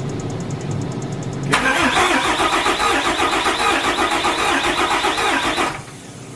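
Starter cranking the Dodge Ram's 5.9 Cummins diesel in a rhythmic, pulsing churn. It starts about one and a half seconds in, after a steady hum, and cuts off about four seconds later without the engine running on.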